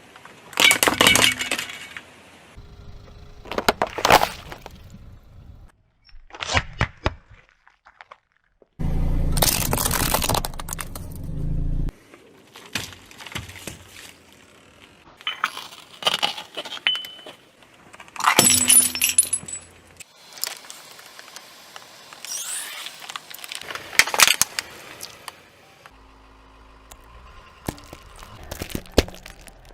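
A series of separate crunching, cracking crushes as objects are flattened under a car tyre, about ten of them spaced a few seconds apart. One longer, louder crush with a low rumble comes about a third of the way in.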